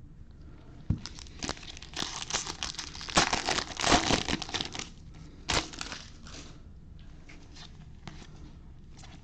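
Plastic wrapper of a trading-card pack crinkling and tearing as it is opened, a dense crackle that is loudest in the middle few seconds and dies away to a few faint rustles near the end.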